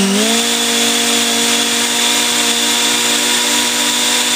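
Three electric ducted fans on a radio-controlled airliner model running at about 25% throttle: a steady multi-tone whine that steps up in pitch right at the start as the throttle comes up, then holds level.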